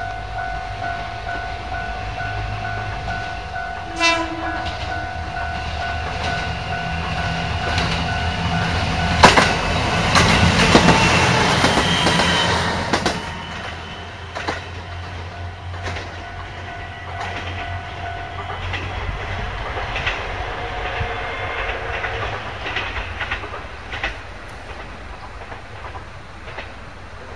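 A train runs by on the line, its wheels clattering over the rail joints, loudest about a third of the way in and then dying away. A steady ringing tone sounds over it until about two-thirds through, with a short sharp sound about four seconds in.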